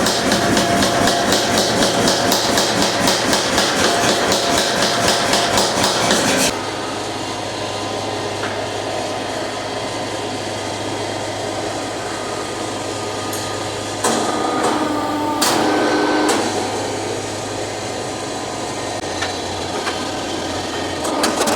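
Fast, even hammer blows on steel, about five a second, for the first six seconds or so. Then the blows stop, leaving a steady low hum, and the hammering starts again near the end.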